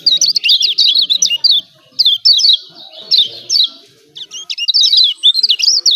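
Kecial kuning white-eye giving rapid, high 'ciak ciak' chirping calls in fast strings of notes, broken by short pauses. This is the excited call used as a lure to set a quiet bird of the same kind singing.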